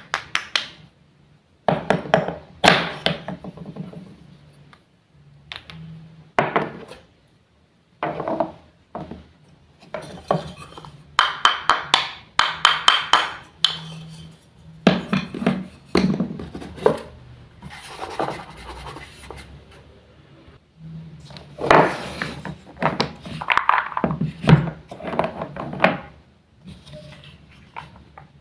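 Wooden toy fruits and vegetables being cut apart with a toy knife: repeated wood-on-wood knocks with scratchy rubbing, in short clusters separated by brief pauses.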